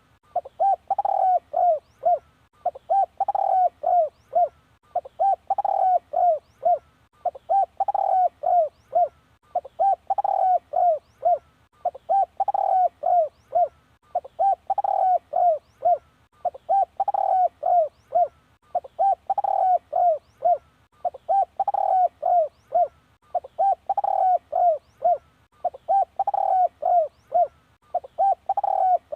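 Spotted dove cooing its song: a phrase of several quick coos, repeated about every two and a half seconds. It is a decoy song used to call in wild spotted doves.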